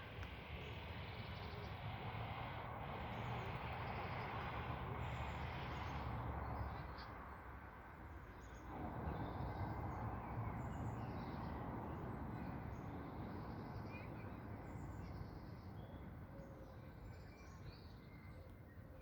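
Outdoor ambience: a steady background rush with faint, scattered bird chirps, dipping briefly about halfway through.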